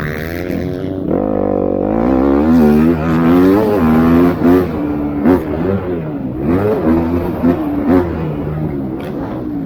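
MX2-class motocross bikes racing, their engines revving up and down in pitch over and over as the riders work the throttle through the gears. Several engines overlap, with a few sharp throttle blips.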